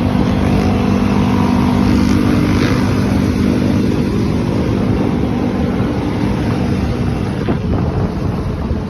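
Yamaha YFZ450 sport quad engine running at a steady speed, with wind noise on the microphone; the engine tone fades about seven seconds in.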